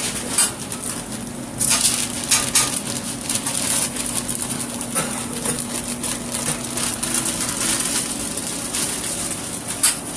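Food sizzling and crackling on a hot griddle, with irregular sharp clicks of utensils over a continuous hiss. A faint steady hum sounds through the middle of it.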